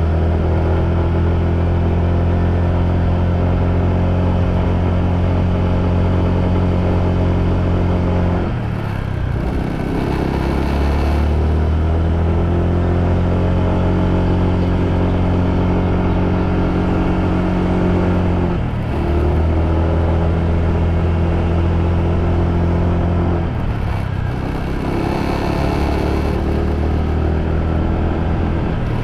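Motorbike engine running steadily under way, with a low rush beneath it. Three times, about nine, nineteen and twenty-four seconds in, the throttle eases off briefly and the engine note drops, then climbs back up.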